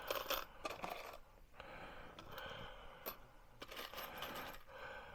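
Small metal screws clinking and scraping as they are rummaged through in a container, with many short irregular clicks.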